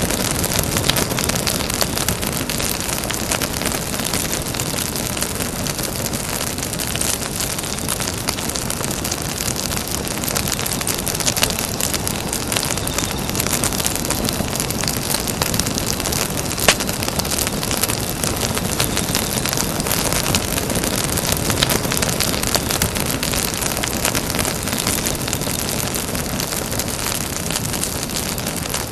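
Campfire burning, a dense steady crackle of small pops over a low rushing hiss, with one sharper pop about seventeen seconds in.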